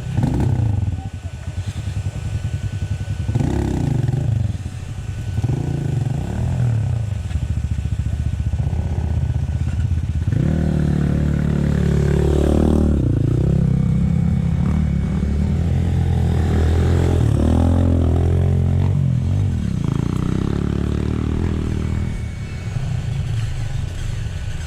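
Motorcycle engine revving in short blips for several seconds, then pulling under steady load with its pitch rising and falling as the throttle is worked, easing off near the end.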